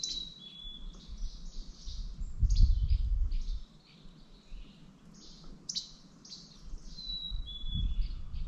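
Songbirds singing and chirping in repeated short phrases, among them a two-step falling whistle near the start and again near the end. A low rumble comes in about two and a half seconds in and again near the end, louder than the birds.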